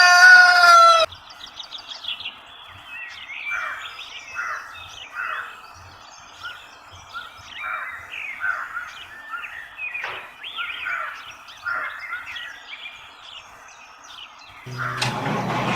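A rooster crow ends in the first second, followed by many small birds chirping and calling. Near the end a steady, louder mechanical noise like a running engine starts abruptly.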